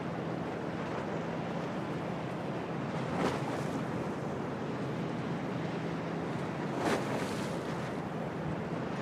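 Storm wind and rough harbour water rushing steadily, with two brief louder splashes of waves breaking, about three and seven seconds in. A low steady hum lies underneath.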